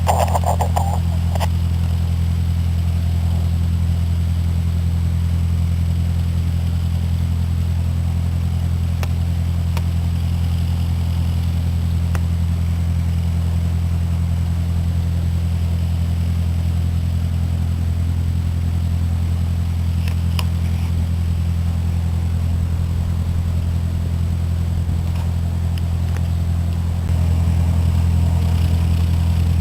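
Cessna 152's four-cylinder Lycoming O-235 engine and propeller droning steadily in flight, a low, even drone that gets a little louder near the end.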